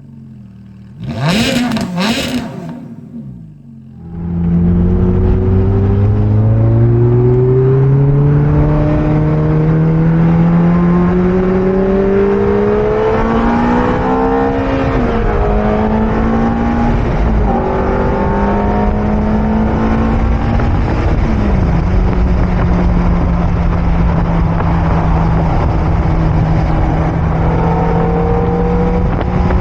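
Ferrari F430 Spider's 4.3-litre V8 on its stock exhaust, first two short revs, then pulling hard with its pitch rising for several seconds. About halfway through the pitch wavers and drops a few times, then it settles into a steady run with road and wind noise underneath.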